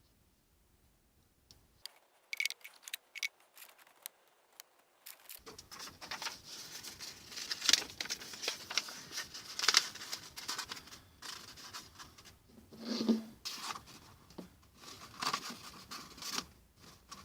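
Handling noise: a few sharp clicks about two seconds in, then irregular scraping and rustling with loud knocks.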